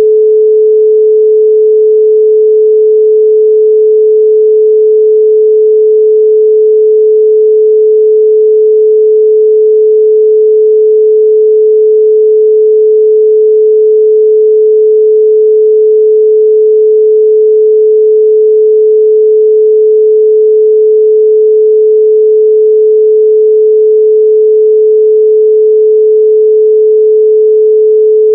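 A 432 Hz pure sine tone, held loud and perfectly steady with no change in pitch or level.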